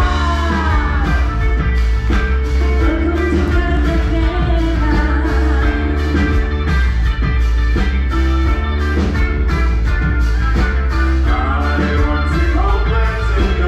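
Loud band music with a steady drum beat and singing.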